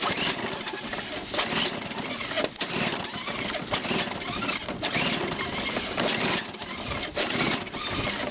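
Recoil pull-starter of a small two-stroke snowblower being yanked again and again, about once a second, the engine turning over without catching: it won't start.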